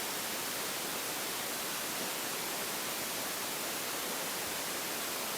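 Steady, even static hiss with no other sound in it.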